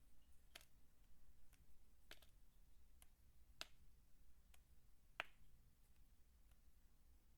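Faint, irregular crisp clicks of dry soap pieces being handled, about eight of them, roughly one a second.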